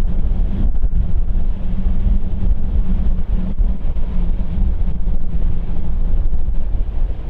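Wind buffeting the microphone: a loud, gusty low rumble that rises and falls throughout.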